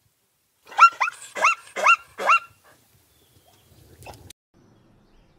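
Zebra calling: a quick run of five high, barking yelps, each rising in pitch, starting about a second in.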